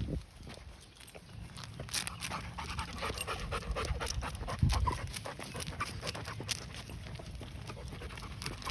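A yellow Labrador panting in quick, short breaths, starting about two seconds in.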